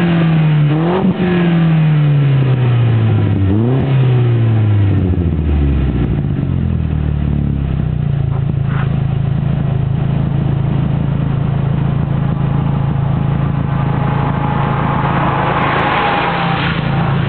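The 2001 Audi A4 1.8T quattro's turbocharged 1.8-litre four-cylinder is heard through a custom 2.5-inch cat-back exhaust with the resonator removed. The revs fall away, with two quick throttle blips on the way down, and about six seconds in the engine settles to a steady idle.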